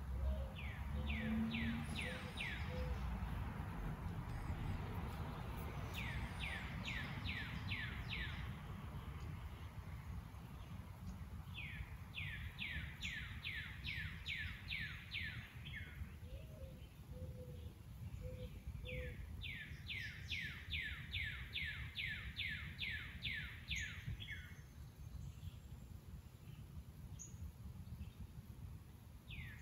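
A songbird singing: four phrases of quick, evenly spaced down-slurred notes, each phrase a couple of seconds long and a few seconds apart, with another beginning at the end. A low steady background rumble runs underneath.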